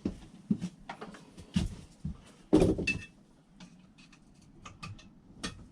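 Metal tools and outboard parts being handled: scattered clicks and knocks, with a louder clatter a little past halfway that ends in a short metallic ring.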